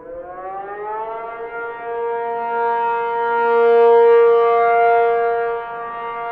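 Tornado warning siren (civil defense siren) winding up in pitch over the first second or so, then holding a steady howl that swells louder in the middle and eases off again near the end.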